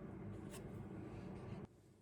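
A steady low hum from a running machine that cuts off abruptly about one and a half seconds in, with a light click about half a second in.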